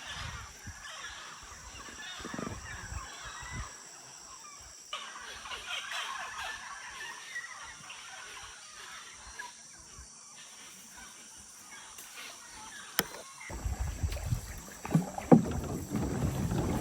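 Rainforest ambience: a steady high insect drone with scattered bird or frog chirps, changing abruptly twice. Near the end, louder rushing noise with a few sharp knocks takes over, like wind or water on the microphone from a canoe.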